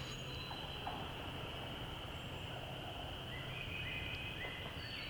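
Woodland ambience: a steady high-pitched chorus with short, scattered songbird notes over it.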